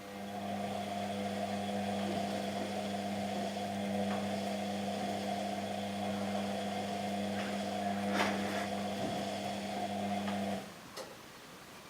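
Washing machine motor turning the drum during the wash: a steady hum with a whine that builds up over the first second, holds, and cuts off abruptly near the end. A single sharp tick about eight seconds in.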